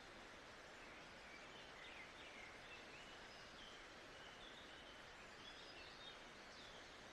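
Faint, steady nature-ambience hiss with distant birds giving several short chirps and whistles.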